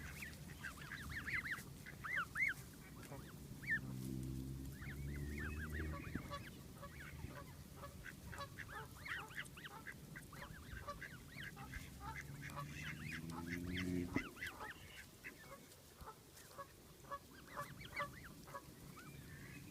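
Geese honking over and over in many short calls. A low droning sound swells twice behind them and cuts off suddenly about fourteen seconds in.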